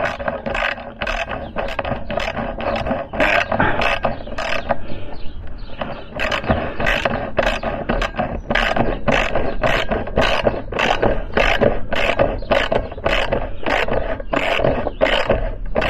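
A hand tool clicking in quick, even, repeated strokes, about two or three a second, with a short pause about five seconds in, as a fitting is worked tight.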